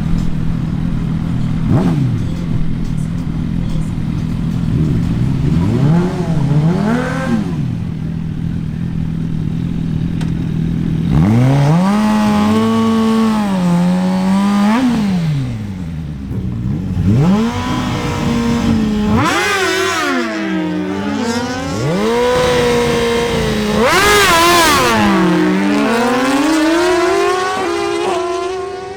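Suzuki GSX-R1000 inline-four sportbikes held at a steady high rev, blipped a few times, then launched hard, engine pitch climbing and dropping sharply at each upshift, several runs of shifts overlapping.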